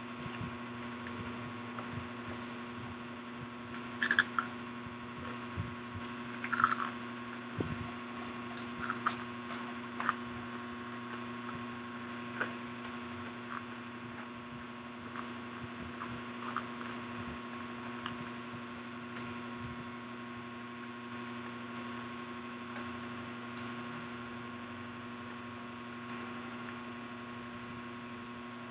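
People chewing and crunching fried street food (calamares and fries) close to the microphone, with scattered sharp crunches that come most often in the first ten seconds. A steady hum runs underneath.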